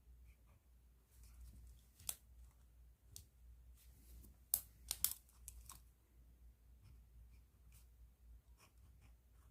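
Plastic bag crinkling as a pen in it is handled: a few sharp crackles, the loudest cluster about halfway through.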